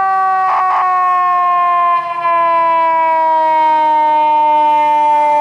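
Fire engine's mechanical siren, wound up and now coasting down, its loud wail sliding slowly and steadily lower in pitch. Two short blips sound over it about half a second in.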